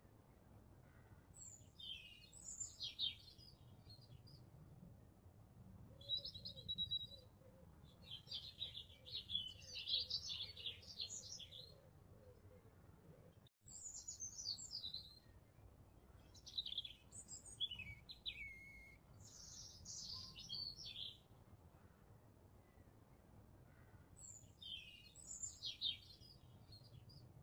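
Small birds chirping and twittering in short bursts a few seconds apart over a faint steady hiss, with a brief dropout about halfway through.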